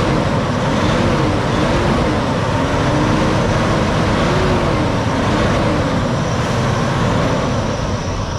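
Diesel engine of a 2011 Freightliner Cascadia truck tractor running steadily, with a tone that wavers gently up and down.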